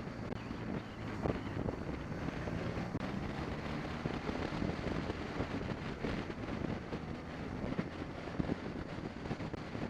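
A BMW 650 GS motorcycle running steadily on the road, its engine tone half buried under heavy wind rushing over the microphone.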